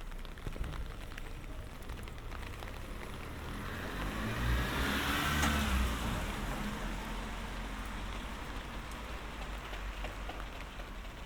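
A car passes on a wet road, its tyre swish and engine swelling to a peak about five seconds in and then fading, over steady light rain.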